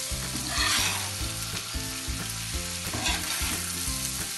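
Beef pieces with onion, tomato and spices sizzling on a tawa while a metal spatula stirs and scrapes them across the pan. Louder scrapes come about a second in and again near three seconds, as the masala is mixed into the meat.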